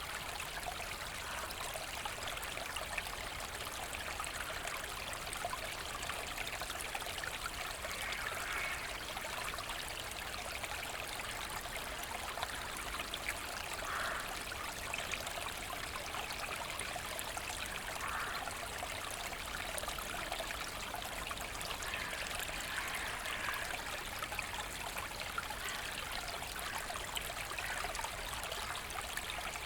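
Forest brook flowing steadily over stones, a continuous trickling and babbling of water with small splashes now and then.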